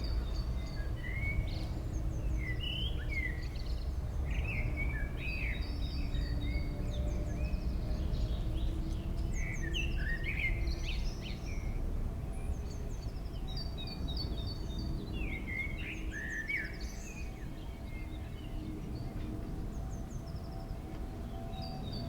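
Songbirds chirping and trilling in short, repeated phrases over a steady low background rumble.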